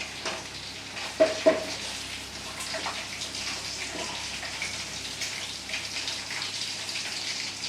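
Hot oil sizzling steadily in a kadai, with two short clinks about a second in.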